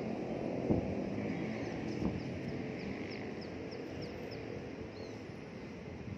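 A small bird repeating short, high, downward chirps, about two a second, over a steady low rumble of wind and distant city noise.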